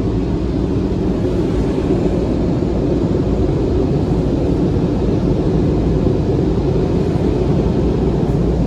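Automatic car wash machinery running, heard from inside the car's cabin: a loud, steady noise with most of its weight low down.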